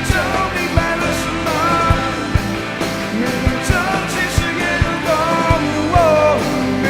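Live rock band playing an instrumental passage, with drums keeping a steady beat under chords and a lead line that bends and slides in pitch.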